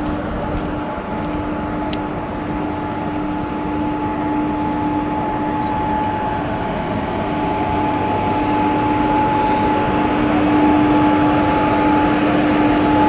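Railway locomotive running, a steady mechanical rumble with two constant humming tones, growing slightly louder toward the end.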